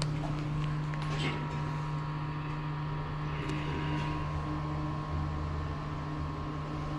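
Elevator car travelling down between floors: a steady low hum from the lift's drive, with a few faint clicks from the car.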